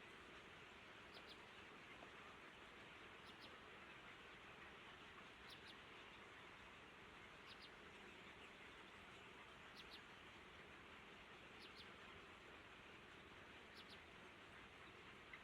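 Faint, high double chirps from a bird, repeating about every two seconds over a steady low hiss.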